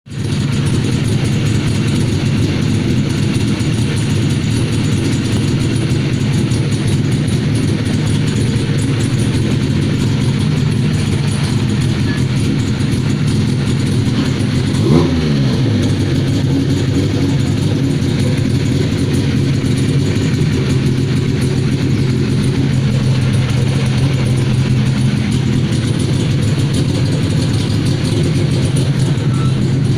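Vehicle engine idling steadily through a custom-built aftermarket exhaust, with one quick rev about halfway through that rises and falls in pitch.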